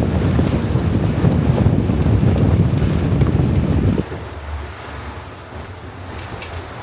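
Wind buffeting the microphone over water rushing past a sailing catamaran under way. About four seconds in the sound drops suddenly to a much quieter wind and water hiss.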